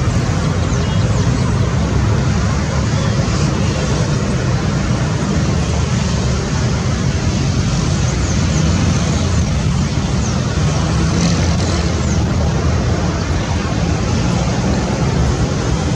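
Light piston-engine propeller plane's engine running steadily, with a constant low drone and a rushing noise.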